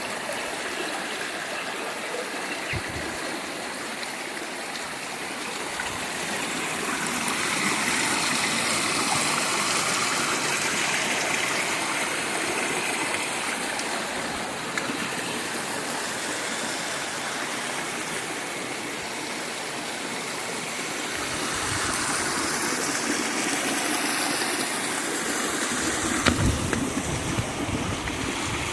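Steady rush of water pouring over a waterfall, swelling louder twice. A few short low thumps near the end.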